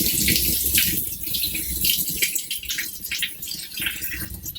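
Running water splashing while a cat is bathed and rinsed.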